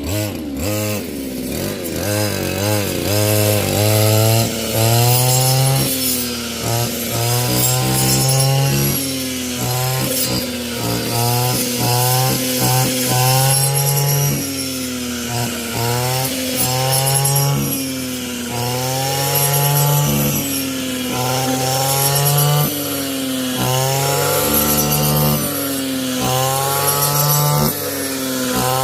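Wood being sawn, a steady working sound whose pitch rises and falls over and over.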